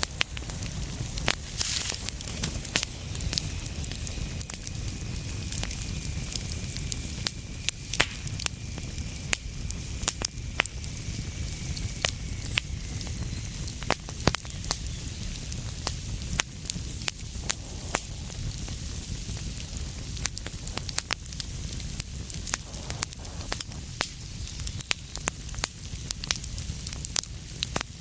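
Wood fire burning in a fireplace, crackling with frequent sharp, irregular pops over a steady low rumble and hiss. A faint high whistle runs for several seconds in the first half.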